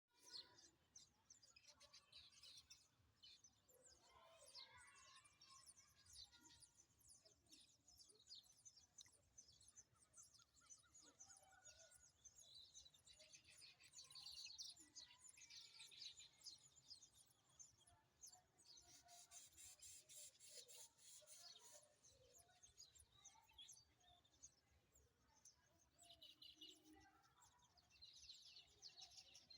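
Small pet parrots, lovebirds, chirping and chattering faintly, with many short, high calls overlapping throughout.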